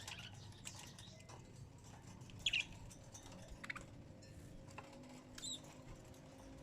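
Small bird giving a few short, high chirps, the loudest about two and a half seconds in, with light clicks and taps between them.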